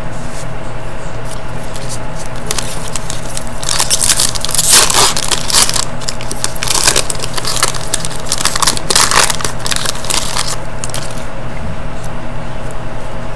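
Foil trading-card pack wrapper crinkling and tearing in a run of crackly bursts from about four to ten seconds in, over a steady hum.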